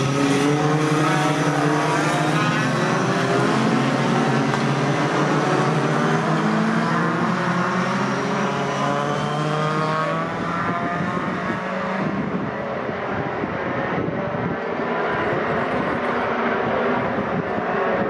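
Racing pickup trucks' engines on track at speed, several engine notes overlapping and climbing in pitch as the trucks accelerate, with the sound easing a little about halfway through.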